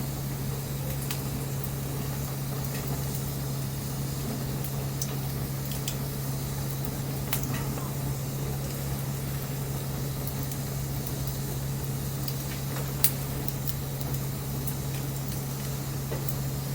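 Wood bonfire crackling with scattered sharp pops, one louder pop about three-quarters of the way through, over a steady low hum.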